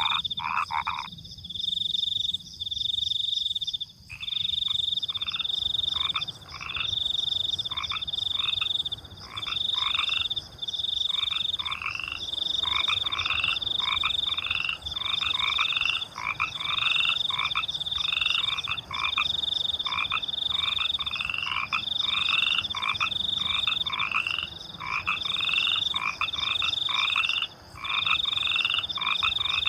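Frogs croaking in a dense night chorus of fast, repeated calls, with crickets chirping higher and more steadily behind them. The croaking stops briefly about a second in and picks up again around four seconds in.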